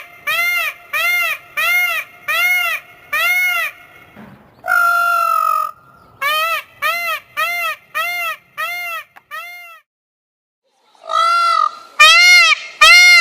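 A large bird honking in goose-like calls. There is a run of short, arched honks about two a second, then one longer flat call, then another run. After a brief pause, louder honks come near the end.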